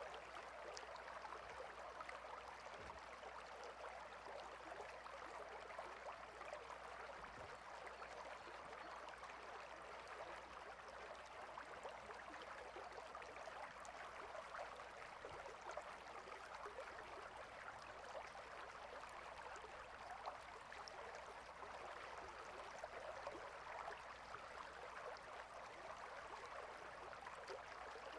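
Faint, steady running water with an even rush and no distinct events.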